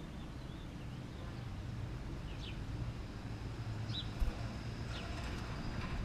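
Outdoor ambience with a steady low hum and several short, high bird chirps, some falling in pitch. A single soft thump comes about four seconds in.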